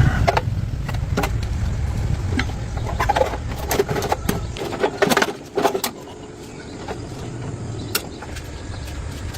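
An engine running with a low, steady rumble, with metallic clicks and clanks over it. The rumble drops away about five and a half seconds in and builds back a second or so later.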